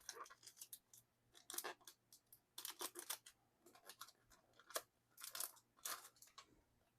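Faint, irregular crinkling and rustling of photo card packaging being handled, in short scattered bursts.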